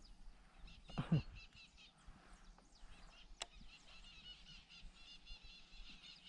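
Birds calling in the background: a fast, steady series of short, high repeated chirps. A brief thump about a second in and a single sharp click a little past the middle.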